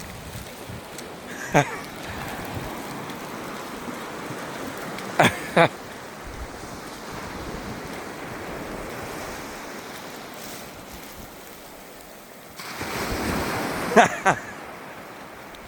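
Ocean surf washing steadily, with wind buffeting the microphone. Five short sharp knocks come through it: one about a second and a half in, two close together around five seconds, and two more near the end, just as the surf swells louder.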